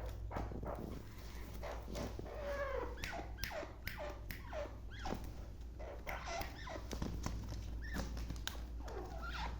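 Black francolin calling: a run of short, harsh, downward-sweeping notes and clicks repeated close together, over a steady low hum.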